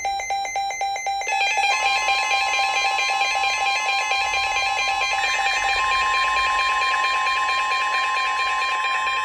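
NOAA Weather Radio alert sounds: an electronic alarm beeping rapidly and evenly, then about a second and a half in a steady 1050 Hz warning alarm tone comes in and holds under a denser repeating alarm pattern. It signals that a new warning is about to be read.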